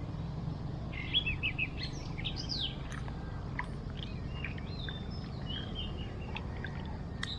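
Birds chirping and whistling in quick, varied short notes, starting about a second in, over a steady low background rumble.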